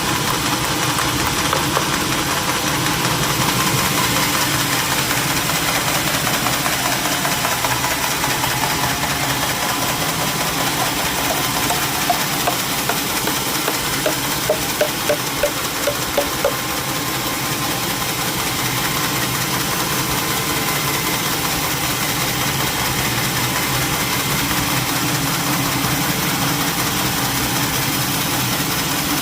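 Sawmill machinery's engine running steadily, with a quick run of sharp knocks about halfway through.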